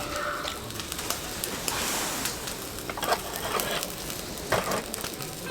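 Steady rain with many scattered drops tapping irregularly.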